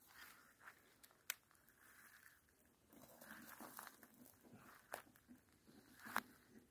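Near silence with faint rustling and a few short sharp clicks or knocks, the loudest near the end.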